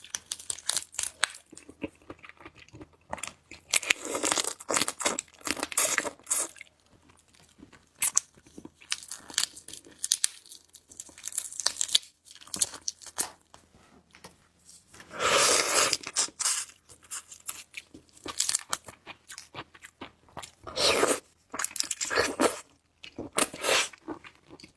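Close-miked eating of a botan shrimp: wet chewing clicks, with loud bursts of crunching about four, fifteen and twenty-one seconds in.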